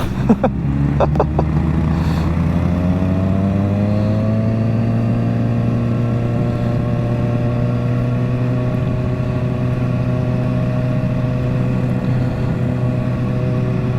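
Motorcycle engine pulling up through the revs for the first few seconds, then holding a steady cruising pitch while riding.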